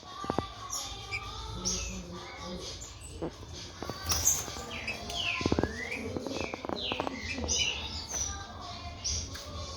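Green-winged saltator (trinca-ferro) singing: a string of quick, downward-sliding whistled notes, with a few sharp clicks among them.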